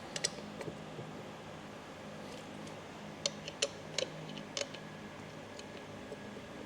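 A few sharp metallic clicks and clinks of hand tools and small metal parts being handled on the bench, scattered and irregular, most of them between three and five seconds in, over a steady low hum.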